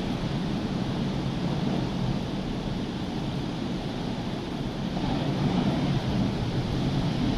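Rough, hurricane-stirred sea surf washing in a steady rush that swells a little about five seconds in, with wind rumbling on the microphone.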